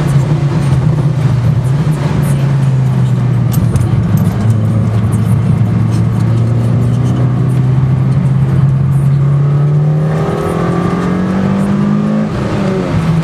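Mitsubishi Lancer Evolution IX's turbocharged four-cylinder engine running under load, heard from inside the car: a fairly even note that climbs in pitch over several seconds, then drops sharply near the end at an upshift. Steady tyre hiss from the wet road runs underneath.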